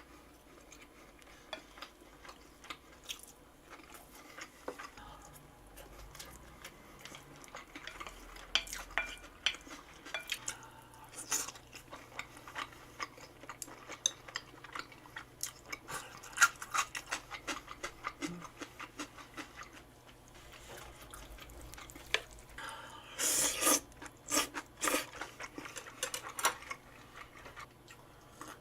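Eating sounds: utensils clicking and tapping against food containers, with chewing. There is a louder, noisier stretch of handling about 23 seconds in that lasts a few seconds.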